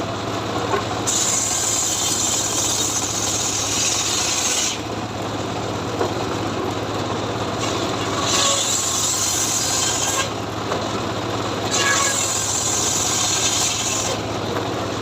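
Homemade srekel log saw running with a steady engine hum while its blade cuts through teak, the rough sawing hiss coming in three stretches of a few seconds each with short breaks between.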